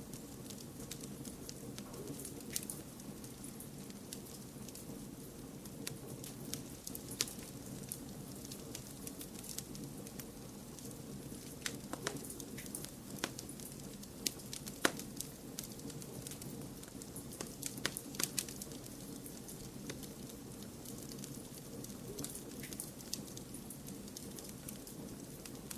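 Wood fire crackling, with scattered sharp snaps and a cluster of louder ones about halfway through, over a steady low rushing bed of blended white noise.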